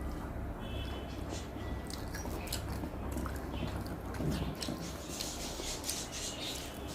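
A person chewing food close to the microphone: soft wet mouth smacks and small clicks, over a low steady hum that drops away about halfway through.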